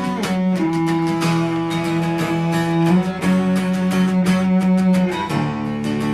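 Instrumental folk music: acoustic guitar strumming steadily under a cello playing long held notes that change every second or two.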